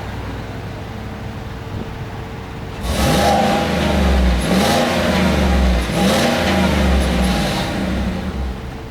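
2018 Chevrolet Silverado pickup idling through its exhaust, then revved hard about three times in a row from about three seconds in, the engine pitch climbing and dropping with each rev before settling back near the end.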